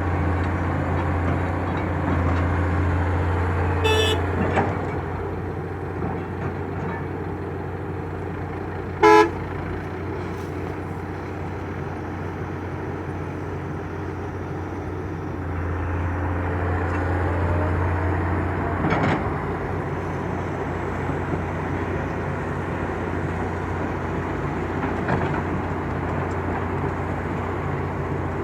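Motor vehicle engine running steadily with a low hum that swells twice. A short, loud horn toot sounds about nine seconds in, with a fainter toot around four seconds.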